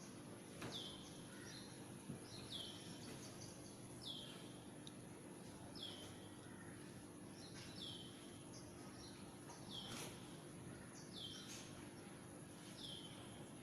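A bird calling faintly and repeatedly, each short call sliding down in pitch and levelling off, about every two seconds, over a steady low hum.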